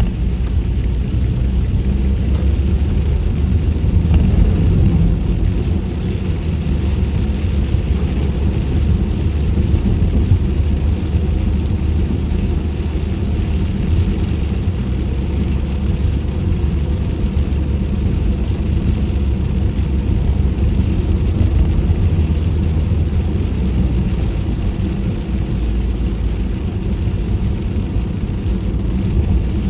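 Steady road noise heard from inside a car cabin with the windows up while driving on rain-wet pavement: a low rumble of tyres and engine with a fainter hiss of tyre spray.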